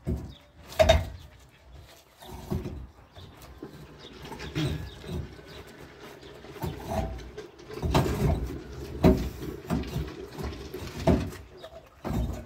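Irregular knocks and scrapes of stones being set and pressed into wet mortar, the loudest clacks about a second in, about eight and nine seconds in, and just past eleven seconds.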